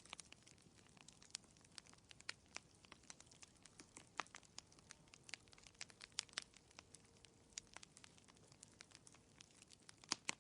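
Wood fire crackling: irregular sharp pops and snaps, several a second, over a faint hiss.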